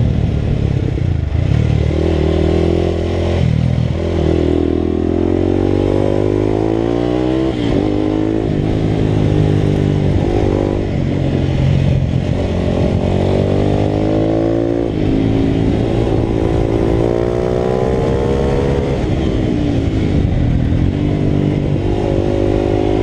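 Italika RT200 single-cylinder four-stroke motorcycle engine running hard at racing speed. Its pitch climbs and drops back several times as the rider accelerates and shifts gears.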